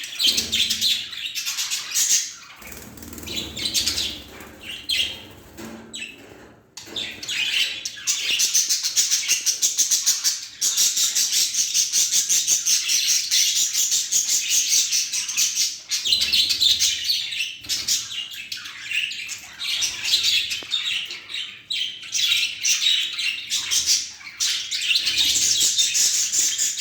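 Budgerigars chattering and chirping in rapid, continuous warbling, with a quieter, patchier stretch a few seconds in.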